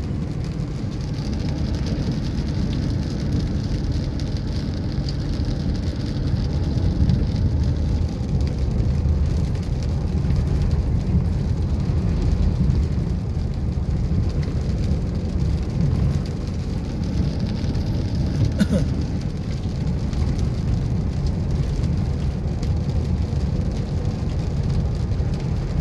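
Steady low rumble of a vehicle on the move in heavy rain, with the hiss of rain mixed in.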